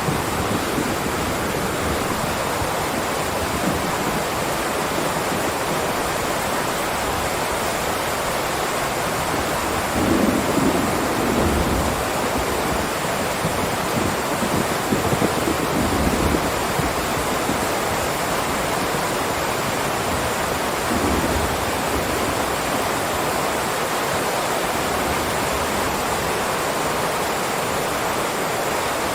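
Heavy rain downpour falling in a steady, dense hiss. Low rumbling swells rise under it about a third of the way in and again around halfway.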